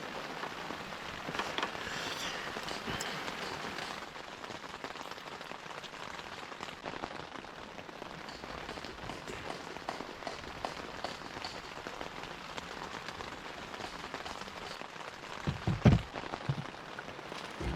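Steady rain falling, with scattered ticks of single drops. A few dull low thumps come near the end.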